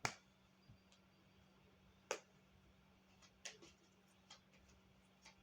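Near silence broken by about six short, sharp clicks and taps, the loudest right at the start and about two seconds in: tarot cards being handled on a table.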